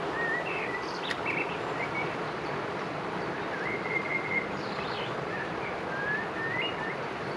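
Small birds chirping and whistling in many short, scattered phrases over a steady background hiss, with a single sharp click about a second in.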